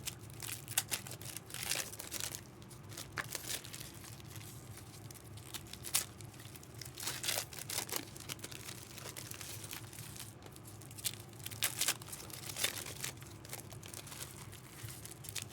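Trading card pack wrappers crinkling and tearing open in irregular rustling bursts, over a steady low hum.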